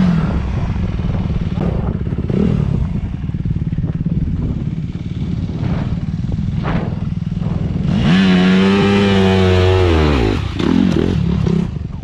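Dirt bike engine running under way, revved hard about two-thirds of the way through and then easing off, with a short blip of the throttle near the end. A few sharp clattering knocks come in the middle.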